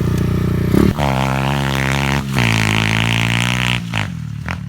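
Pit bike engine running hard at high revs, holding a fairly steady pitch with two brief dips in throttle, then falling away quickly near the end.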